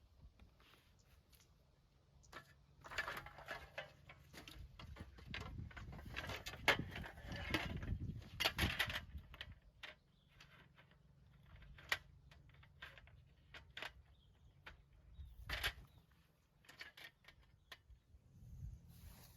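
Faint, irregular clicks, knocks and rustling of objects being handled, busiest between about three and nine seconds in, with a sharper knock a few seconds before the end.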